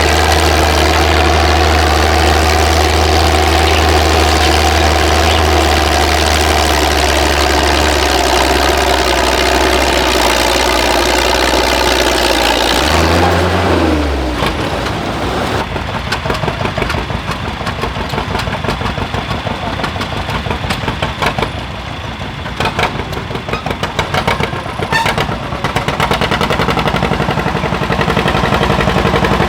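Engines running: a steady deep hum for about the first half, which bends in pitch and gives way to a faster, rattling engine sound full of sharp pops and ticks.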